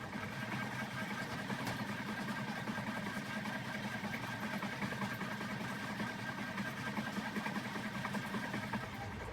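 A household machine running with a steady hum.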